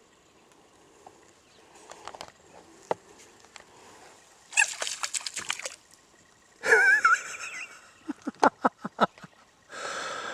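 American bullfrogs calling around the kayak. There is a quick burst of sharp clicks about halfway, a short wavering call, then a run of about seven quick pulses and a harsher call near the end.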